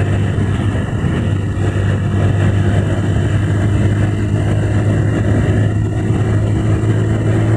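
Motorcycle engine running steadily while riding along the road: a constant low hum under a steady rush of road and wind noise.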